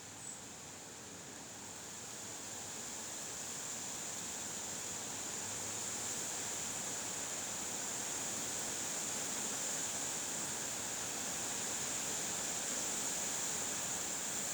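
Wind blowing: a steady rushing noise that grows louder over the first few seconds and then holds. A brief faint tick comes just after the start.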